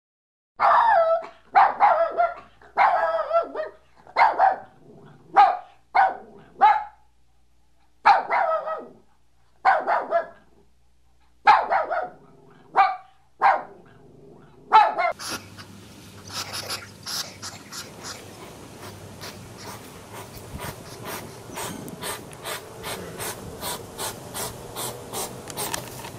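A puppy barking in about a dozen short, high, separate barks. About halfway through, the barks stop and give way to a steady rustling hiss with quick clicks, a hedgehog snuffling.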